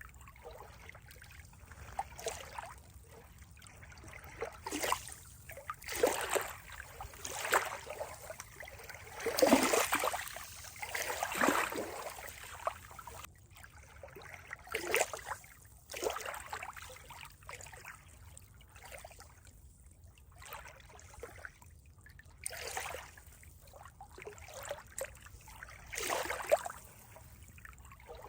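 Water trickling and splashing in irregular surges every second or two over a soft steady wash.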